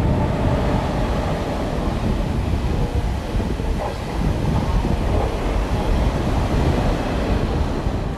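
KTX-Sancheon high-speed train running through the station: a steady, loud rush of wheels on rail and moving air, heaviest in the low rumble.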